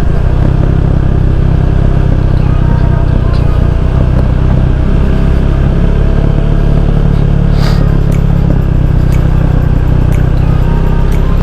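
Motorcycle engine running steadily on the move, under heavy wind rumble on the rider's microphone.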